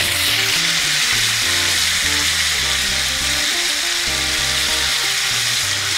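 Fresh-cut potato fries frying in very hot oil in a cast iron skillet, a loud, steady, hissing sizzle right after they hit the oil.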